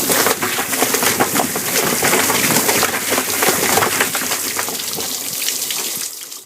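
Homemade Whizbang-style chicken plucker running: a scalded chicken tumbling against the rubber fingers of the spinning bottom plate under a water spray, a loud, dense clattering and splashing that cuts off about six seconds in.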